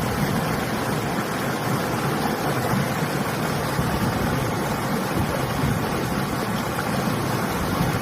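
River water rushing steadily, with winter wind gusting over it.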